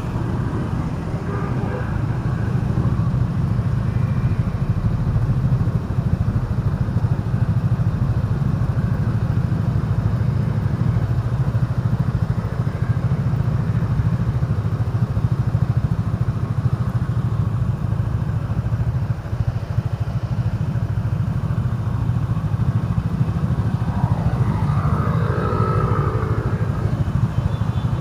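Motorcycle engine running steadily while riding in traffic, with road noise. A brief higher-pitched tone, perhaps another vehicle, comes near the end.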